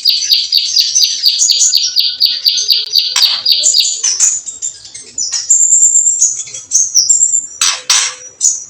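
Songbird calling: a fast, even run of high repeated chirps, about six a second, for the first three seconds, then varied whistled notes broken by harsh rattling 'kretekan' calls, the loudest near the end.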